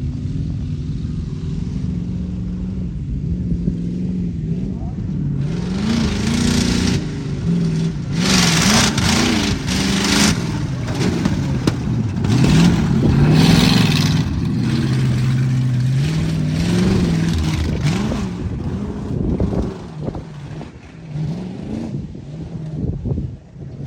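Truck engine revving up and down hard, its pitch rising and falling repeatedly as it works through a Tuff Trucks course. The loudest stretch comes from about 6 to 14 seconds in, with rushing noise over the engine, and it fades near the end.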